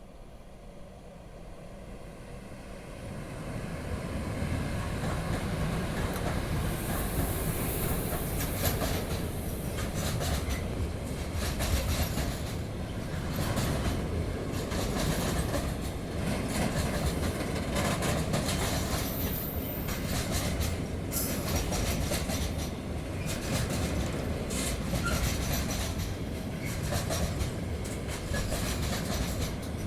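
Freight train hauled by a Vectron electric locomotive rolling slowly across a steel bridge. The rumble grows over the first few seconds, then holds steady with the rhythmic clatter of wheels over rail joints. A brief high-pitched noise comes about seven seconds in.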